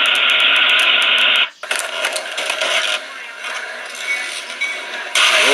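Scraping and rattling noise from crash footage. A loud, steady rush of noise cuts off suddenly about a second and a half in, uneven scraping and rattling follow, and the loud rush returns near the end.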